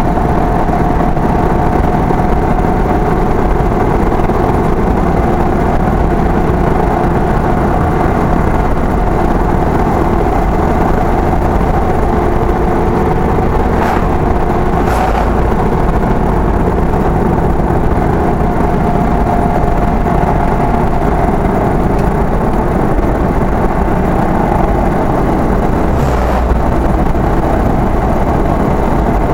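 Steady engine and road noise of a vehicle cruising, heard from on board, with a steady tone running through it. About halfway through, an oncoming lorry passes with a brief whoosh, and another short whoosh of a passing vehicle comes near the end.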